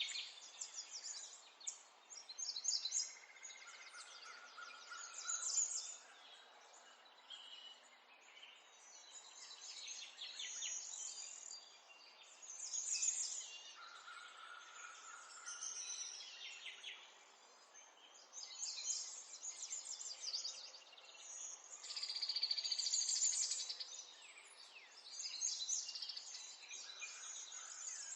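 Several small songbirds chirping and singing at once, a busy chorus of high, overlapping twittering phrases that swells and eases every few seconds.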